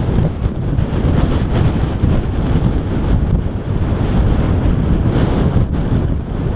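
Strong wind buffeting the microphone: a loud, steady low rumble with no clear engine tone.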